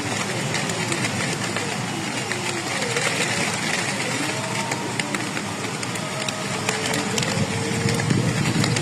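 Steady rain falling, with scattered sharp clicks of drops.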